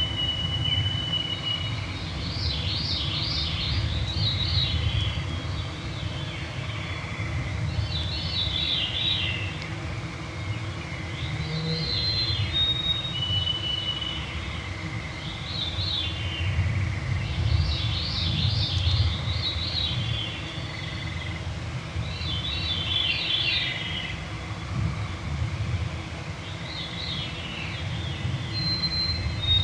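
Evening forest bird chorus: a veery's song, a phrase spiralling downward in pitch, repeated every few seconds, with clear whistled notes from another bird stepping down in pitch near the start, in the middle and near the end. A steady low rumble runs underneath.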